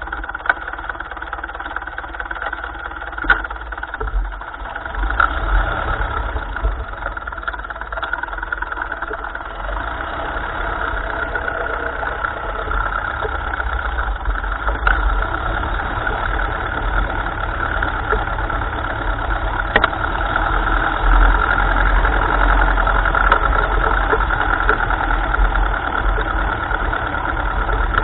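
1955 Ferguson tractor engine running steadily at low speed, with a few sharp clicks and knocks and getting a little louder from about ten seconds in.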